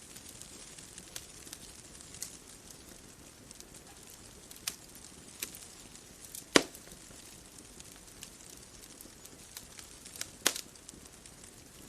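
Wood fire crackling: scattered sharp pops over a soft steady hiss, with a loud pop about six and a half seconds in and another near ten and a half seconds.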